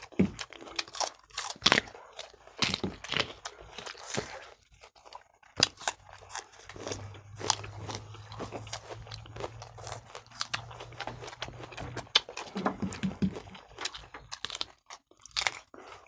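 Two people biting into and chewing raw, sour green jujubes (boroi), a run of irregular crisp crunches close to the microphones.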